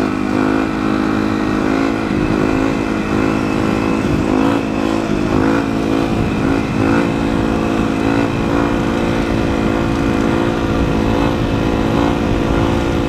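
Yamaha WR450F's single-cylinder four-stroke engine held at steady high revs through a long wheelie, with small throttle wobbles a few seconds in before it settles.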